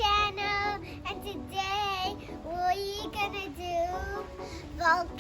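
A child singing in a high voice, a run of short melodic phrases.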